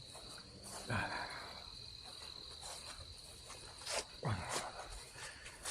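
Crickets trilling in one steady, high, unbroken tone, with scattered scuffs and taps on top, two of them louder, about a second in and near the four-second mark.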